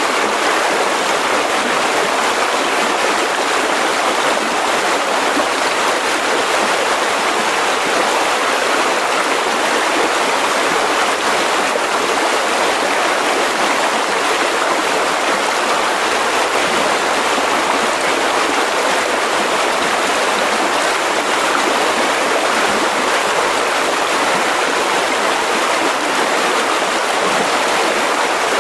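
Mountain river rushing steadily over rocks, an even, unbroken sound of flowing water.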